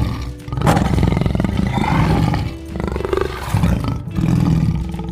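Leopard growling in repeated rough bouts, over background music.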